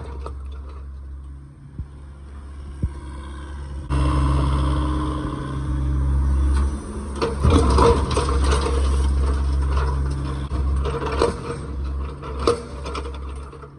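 A heavy machine's diesel engine runs steadily and gets louder about four seconds in, with scraping and irregular knocks of broken concrete being handled through the second half.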